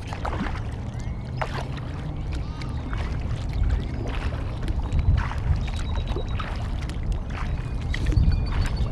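Kayak paddle strokes splashing and dripping in lake water, with a steady low rumble of wind on the microphone.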